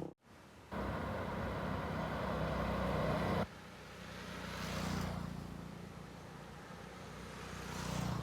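Road traffic noise. A loud stretch cuts off abruptly a few seconds in, then vehicles pass twice, each swelling and fading.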